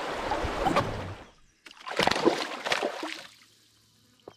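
Rushing river water that cuts off about a second in, followed by a short run of splashing and sloshing water, likely a canoe paddle working the water.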